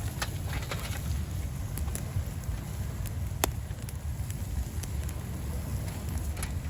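Steady wind rumbling on the microphone, with scattered sharp clicks, one louder one about three and a half seconds in.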